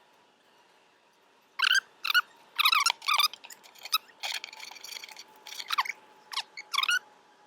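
Beehive frames being pried and slid in the hive box, giving a series of sharp, high squeaks and scrapes that start about a second and a half in. Under them is a faint, steady hum of honeybees.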